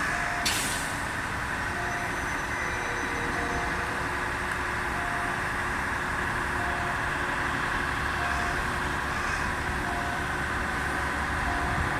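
Industrial diesel switcher locomotive running while it moves freight wagons, with a warning beep repeating about every second and a half. There is a short burst of air hiss about half a second in.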